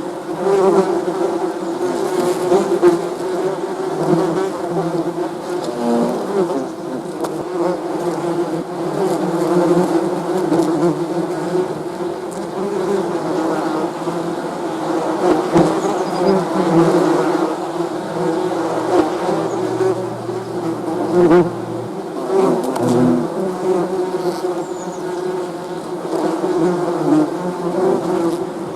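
Bees buzzing: a continuous, steady hum whose pitch wavers slightly.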